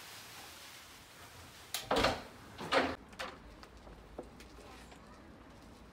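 A front door being unlatched and opened: a few short knocks and clicks, the loudest two about two and three seconds in.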